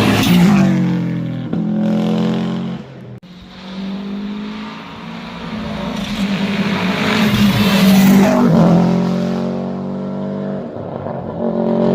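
Historic rally cars passing at speed on a stage, engines at high revs. The first sweeps past near the start with a falling pitch. After a sudden break at about three seconds, a second car is heard approaching, loudest around eight seconds as it passes with a falling pitch, and then revving again near the end.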